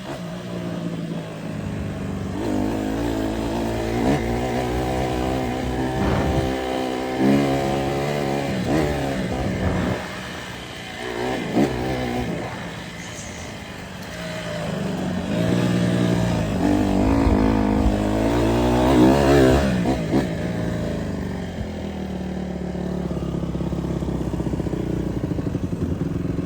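Dirt bike engine, likely a Honda CRF150R four-stroke single, revving up and shifting through the gears while riding, its pitch climbing again and again. It eases off around ten seconds in and again near fourteen seconds, then pulls hard to its loudest just before twenty seconds.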